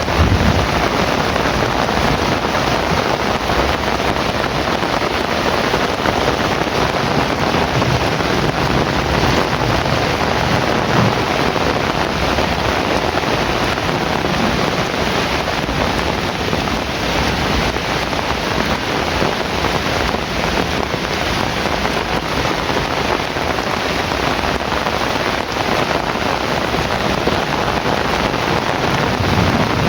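Heavy rain falling steadily, a dense even hiss, with a low rumble of thunder at the start and again near the end.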